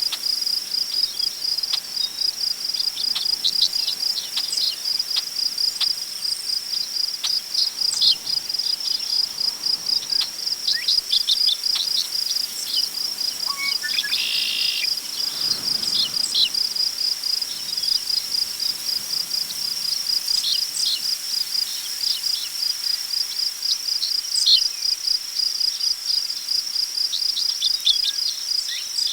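Crickets chirping in a continuous, rapidly pulsing high trill, with birds giving short chirps now and then and one quick bird trill about halfway through. Soft wind in tall grass comes up briefly just after.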